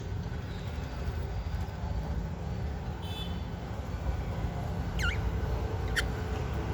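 Budgie chirps over a steady low rumble: a brief faint twitter about three seconds in, then two short, sharp calls that fall steeply in pitch, a second apart, near the end.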